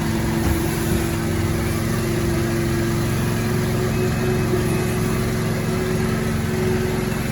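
An engine or motor running steadily at idle, a constant low hum with a steady tone above it and no change in speed.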